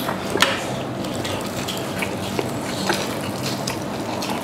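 Close-miked chewing of crispy KFC extra-spicy fried chicken, with a few sharp crunches over a faint steady low hum.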